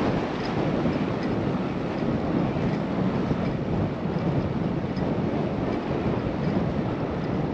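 Steady rush of wind on a GoPro's microphone during a bike ride, with faint, evenly spaced ticks about twice a second.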